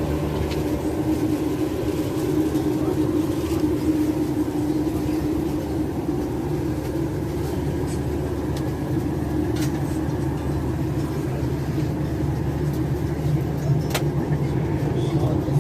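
Steady hum in the cabin of a Boeing 737-800 parked at the gate with its engines not yet started, with a few faint clicks and some murmur of voices.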